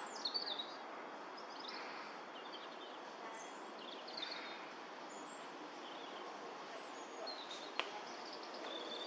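European robin singing: short, high, thin warbling phrases every second or so over a steady background hiss, with one sharp click near the end.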